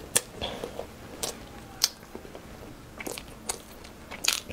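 A person chewing a mouthful of Chinese jujube (red date) cake close to the microphone, with several sharp, wet mouth clicks and small crunches scattered through the chewing.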